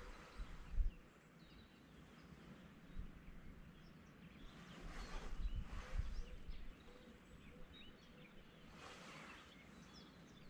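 Quiet rural morning ambience with faint, scattered bird chirps. Low rumbling thumps come near the start and again around six seconds in.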